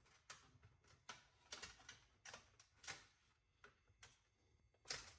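Faint, irregular light clicks and taps of a steel tape measure being handled and walked along a sheet metal edge.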